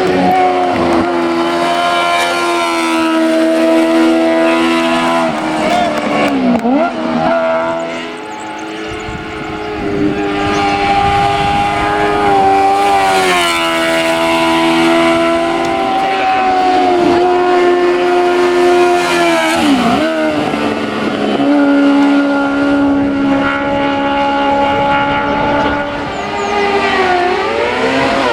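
Hillclimb race car's engine held at high revs. Its pitch drops sharply and climbs back about a third of the way in, again about two-thirds in, and once more near the end, as the car lifts off and shifts for corners.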